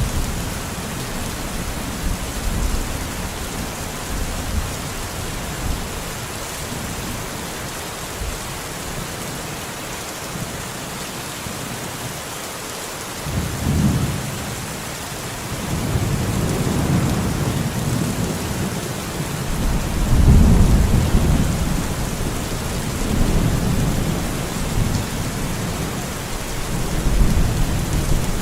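Steady rain falling, with rumbles of thunder rolling in about halfway through; the loudest rumble comes about two-thirds of the way in, and a last one near the end.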